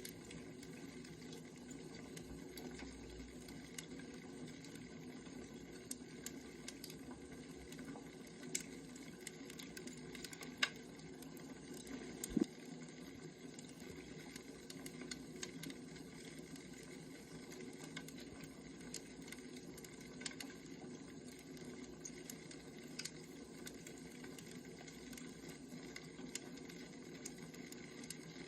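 Wood fire crackling: a low, steady rumble with scattered small pops and a few sharper cracks near the middle.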